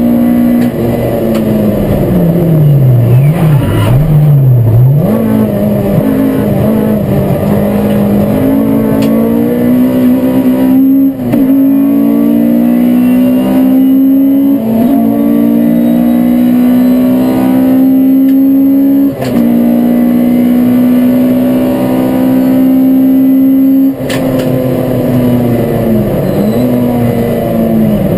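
Race car engine heard from inside the cabin, driven hard on track. A few seconds in, the revs dip and climb twice, then they climb steadily, with a sudden brief drop about every four to five seconds, typical of upshifts.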